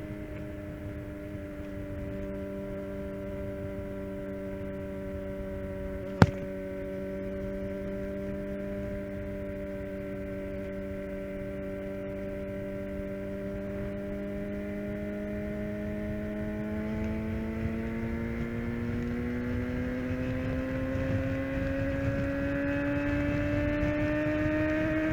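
Suzuki GSX-R750 inline-four with a full Yoshimura exhaust, heard from the bike at steady revs, then revs climbing slowly through the last third as it accelerates, with a constant low rush underneath. A single sharp crack sounds about six seconds in.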